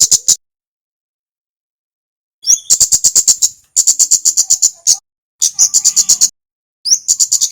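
Kemade bird song from a looped lure recording: bursts of rapid, sharp high notes, about seven a second. Each burst opens with a quick rising note. The end of one burst is heard, then four more come after short pauses.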